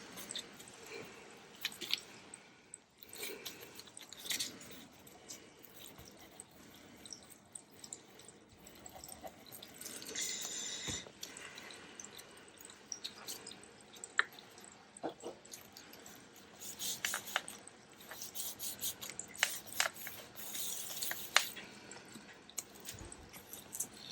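Paper pieces being handled and laid out on a desk: soft rustles with scattered small taps and clicks.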